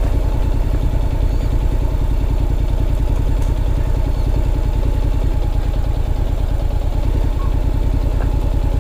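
Honda NC750X's parallel-twin engine running steadily at low revs.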